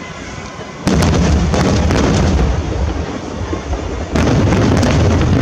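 Aerial fireworks shells bursting: a sudden loud volley of many overlapping bangs starts about a second in, and a second volley starts near the end.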